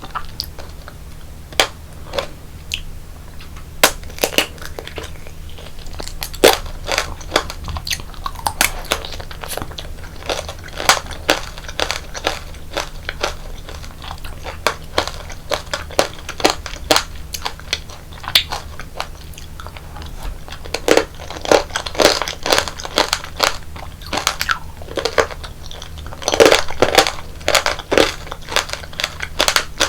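Tanghulu being bitten and chewed, the hard sugar shell on the candied fruit cracking in many sharp crunches, busiest in two spells in the second half.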